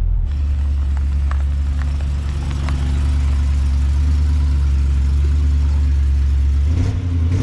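A vehicle engine idling steadily with an even low drone.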